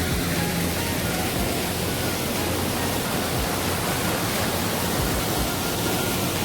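A small waterfall's water rushing steadily, close to the microphone.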